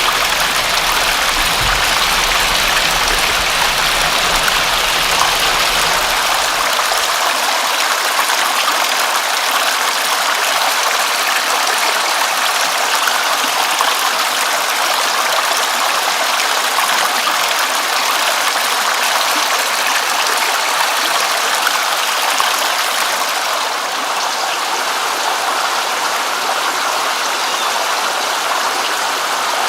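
Steady, dense rain falling, a continuous hiss of drops without breaks. A low rumble underneath fades out after about seven seconds, and the hiss turns slightly duller near the end.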